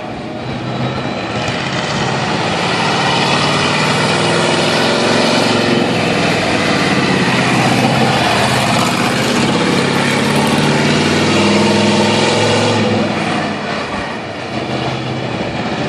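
Monster truck's engine running loud and revving, its pitch rising and falling; it eases off near the end.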